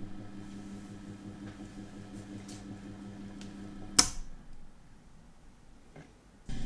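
Electric motor of a vintage watch-cleaning machine humming steadily as it spins the basket of watch parts in the cleaning solution. About four seconds in, a sharp click and the hum stops; a louder sound starts again just before the end.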